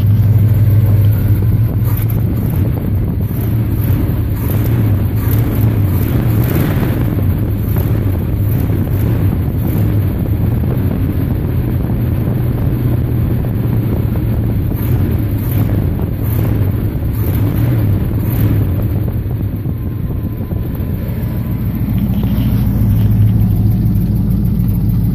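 1982 Chevy Custom Deluxe pickup's engine idling on a cold start with no choke, heard from inside the cab: a steady low running note. The idle sags about twenty seconds in, then picks back up.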